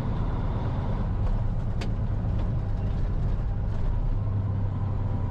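Dump truck engine running steadily with a low hum, with a single sharp click a little under two seconds in.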